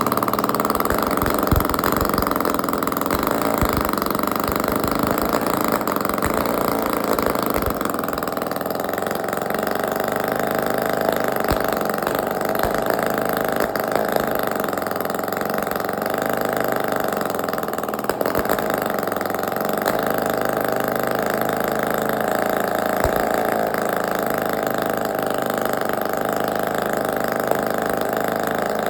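Prototype two-stroke twin boxer crankless engine running at idle, its tone shifting about eight seconds in. The builder describes the idle as uneven because of makeshift, temporarily attached scavenging parts.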